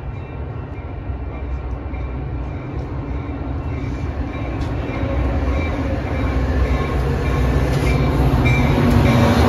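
A train approaching along the tracks, its rumble and rail noise growing steadily louder.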